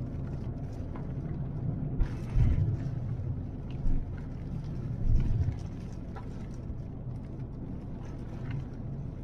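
Car cabin while driving in rain: steady low engine and road rumble, with scattered light taps of rain on the car. About two seconds in there is a brief louder rush of noise.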